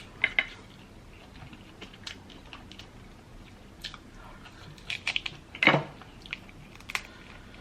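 Close-up eating sounds: chewing and biting on crab meat, with scattered small wet clicks and smacks and a louder crunching smack about five and a half seconds in.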